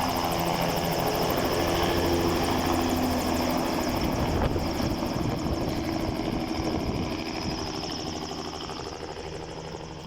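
Helicopter running, its rotor beating fast and evenly, fading away over the last few seconds.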